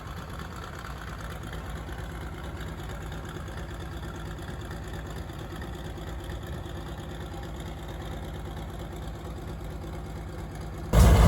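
Monster truck's Cummins turbo diesel engine running steadily at low revs, a low, even hum. Just before the end a much louder sound cuts in suddenly.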